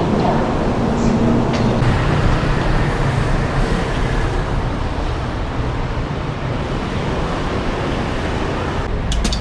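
Steady low rumble of road or rail traffic, with a few sharp clicks near the end.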